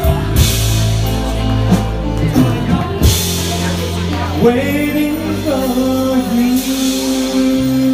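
Live band music with drums, cymbal crashes and a steady bass line. Partway through, a voice glides up into a long held note.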